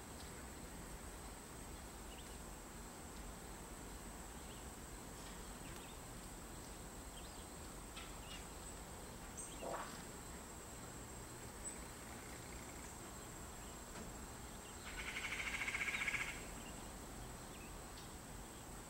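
A steady high-pitched insect trill, with a louder buzz that swells for about a second and a half near the end.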